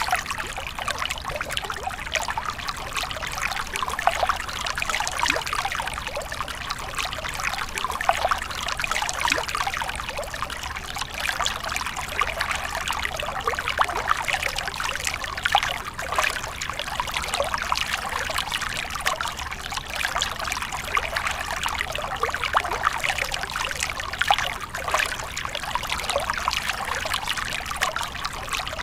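Running water trickling and splashing steadily, full of small splashes and with no pauses.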